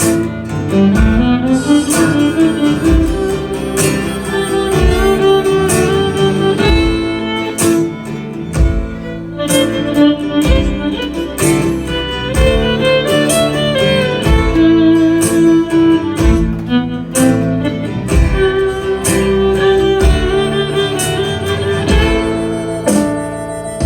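Band playing an instrumental intro: fiddle carrying the melody over guitar, with a steady drum beat.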